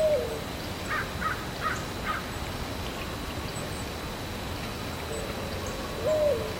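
Mourning dove cooing twice, about six seconds apart, each coo a low note that swoops up and falls away. A few short, higher chirps from another bird come about a second in, over steady outdoor background noise.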